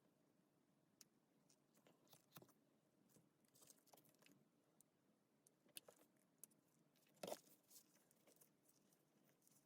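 Near silence with faint scattered small clicks and taps, one a little louder about seven seconds in.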